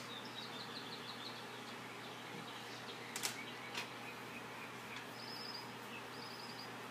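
Faint high-pitched bird chirps in quick runs over a steady hiss, with two quick trills about five and six seconds in and a couple of sharp clicks about three seconds in.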